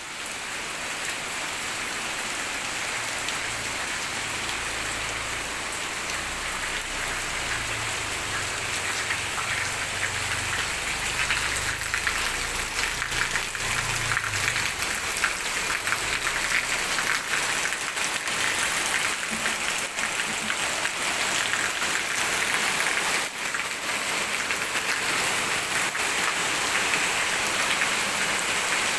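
Steady rain falling hard, a dense pattering hiss that grows a little louder over time. A low rumble sits underneath during the first half.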